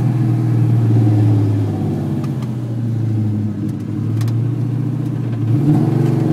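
Ford Mustang's 5.0 stroker V8 pulling under acceleration, heard from inside the cabin; the revs drop off a little past halfway and climb again near the end.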